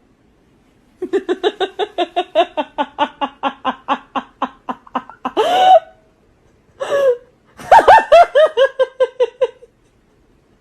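Hearty laughter from a person: long runs of quick, rhythmic "ha-ha" pulses, about five a second, broken near the middle by a wheezing gasp for breath before a second run.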